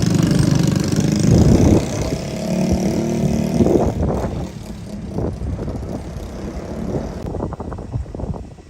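A loud vehicle passing, a low rumble that peaks in the first two seconds and then fades away.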